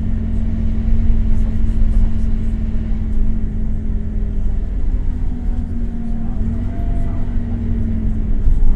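Scania K270UB city bus's five-cylinder diesel engine running steadily with a low drone, a held whine over it that dips briefly about six seconds in.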